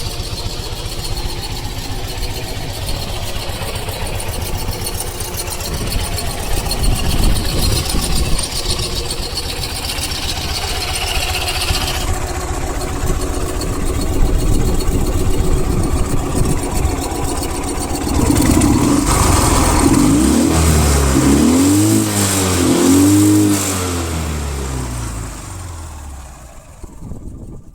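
Ural motorcycle's two-cylinder boxer engine running, blipped several times about two-thirds of the way through so that its pitch rises and falls, before the sound drops away near the end.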